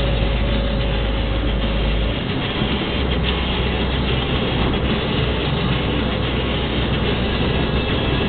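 Scania R420 truck on the move: steady engine and road noise with a deep drone that shifts about two seconds in.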